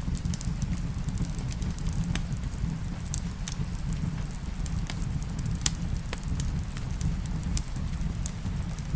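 Wood fire crackling, with scattered sharp pops over a steady low rumble and the loudest pop a little past halfway. Rain hisses faintly underneath.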